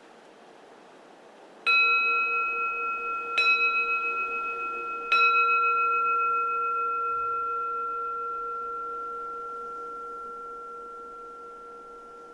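A keisu, a Zen temple bowl bell, struck three times about a second and a half apart, its ring fading slowly over faint wind.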